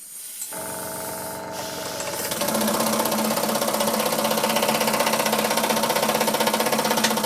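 Stuart ST model steam engine running on compressed air, driving a dynamo by belt. It starts about half a second in, picks up speed and loudness over the next two seconds, then runs steadily with a rapid, even beat.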